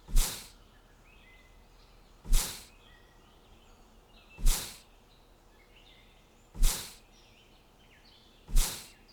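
A sharp whoosh repeating about every two seconds, five times, over faint bird chirping.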